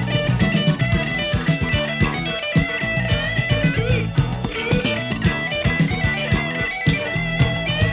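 Instrumental blues-rock music: an electric guitar plays a lead line with bent, wavering notes over bass guitar and a steady drum beat.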